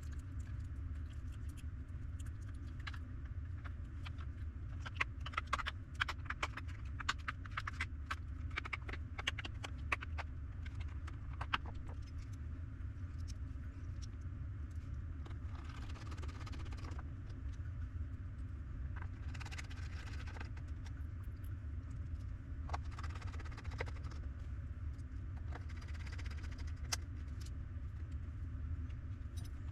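A run of small sharp clicks and taps from handling and fitting small parts together, then a few short scraping or rustling sounds, over a steady low hum.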